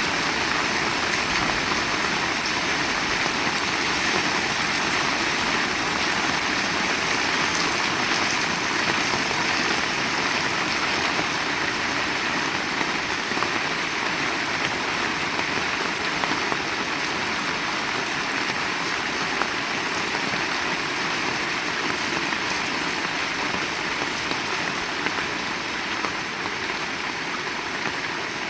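Heavy rain falling steadily as a dense, even hiss, easing slightly near the end.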